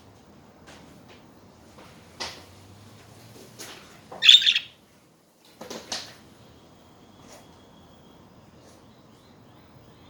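Pet budgerigars chirping and chattering in short, scattered calls, the loudest a harsh chirp about four seconds in; a faint thin steady tone runs through the later part.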